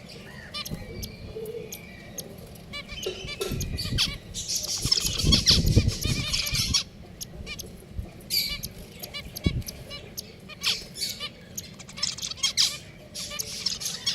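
Pet finches chirping, with many short, high calls scattered throughout. A louder rustling burst runs for about two seconds near the middle.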